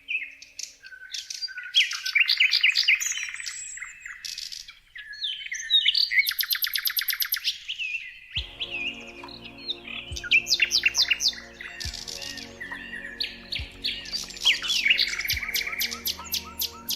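Several songbirds chirping and singing at once in quick, overlapping trilled phrases. About halfway through, a low steady hum joins underneath.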